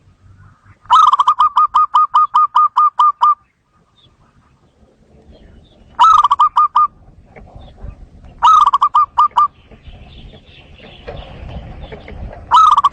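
Zebra dove calling in bursts of rapid, evenly spaced staccato cooing notes: a long run of about a dozen notes, then three shorter runs, the last near the end.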